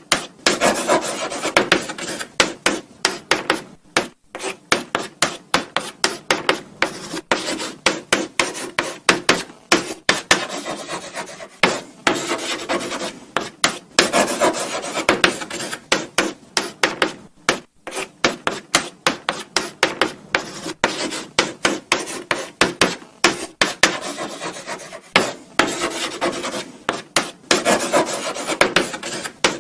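Chalk writing on a blackboard: a continuous run of short scratching strokes and light taps of the chalk against the board, with brief pauses between words.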